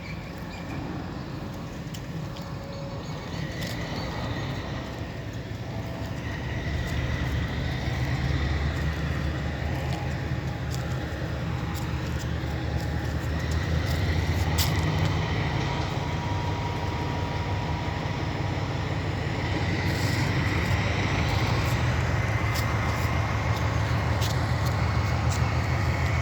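Locomotive running with a steady low rumble that grows louder over the first dozen seconds, with a faint whine and scattered clicks over it.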